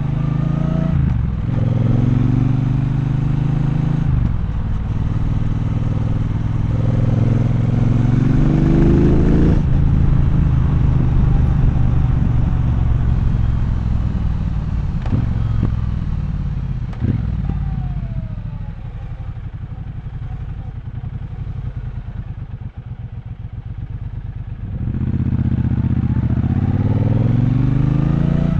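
Triumph Bonneville Bobber's 1200 cc parallel-twin engine accelerating through the gears with rising pitch over the first several seconds, then easing off to a quieter, low, steady running for several seconds, and pulling away again with rising revs near the end.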